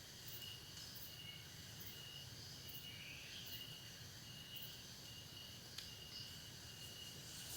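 Faint chorus of crickets and other insects: a steady high trill with fainter short chirps repeating above it, and one small click near the end.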